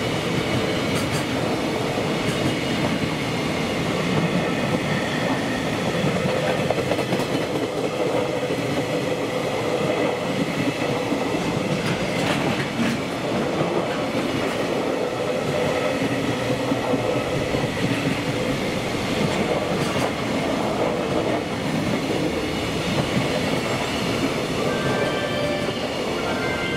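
Loaded container wagons of a freight train rolling past at speed: a steady rumble and clatter of steel wheels on the rails.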